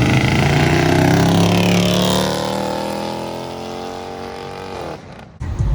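Toyota Supra built to over 1000 hp accelerating hard past; its engine note is loud at first, then drops in pitch and fades as it pulls away. The sound cuts off abruptly about five seconds in.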